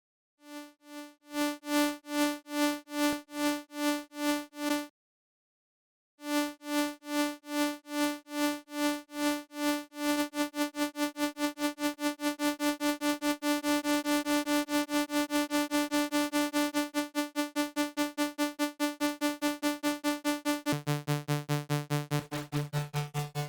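A synthesizer note repeating in even pulses at one pitch. The pulses stop for about a second, start again, then double in speed about ten seconds in, building a riser. Near the end a lower sustained note joins under them.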